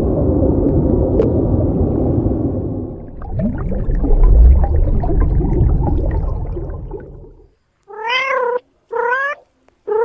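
A loud, rough rumbling noise for the first seven seconds or so, then a kitten meows three times, about a second apart, each call rising and falling in pitch.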